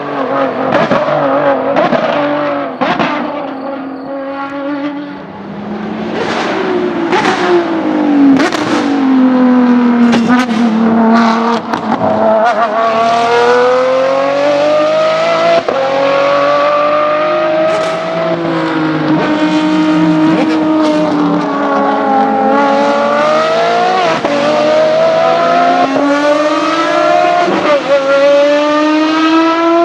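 Ferrari 599XX V12 race cars running on a circuit: the engine note falls and rises several times as they brake, downshift and accelerate through the gears, with a cluster of sharp cracks on the downshifts about a quarter of the way in.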